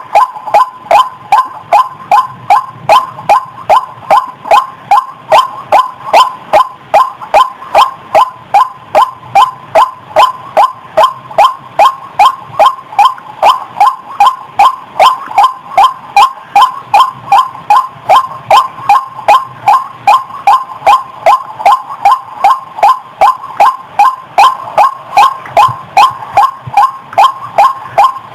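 White-breasted waterhen (ruak-ruak) calling, a steady run of loud repeated calls, about two or three a second.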